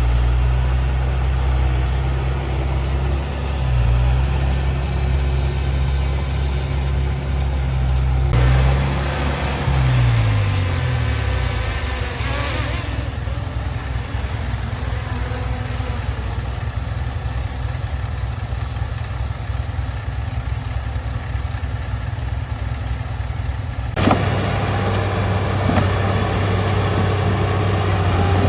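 Heavy-machinery diesel engine running under work, its pitch dropping about ten seconds in. The sound changes abruptly twice, about a third of the way in and near the end.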